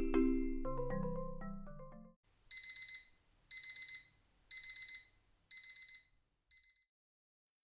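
A light mallet-percussion tune winds down and fades out over the first two seconds. Then an electronic alarm clock beeps in five short bursts of quick beeps, about one burst a second, the last ones fainter.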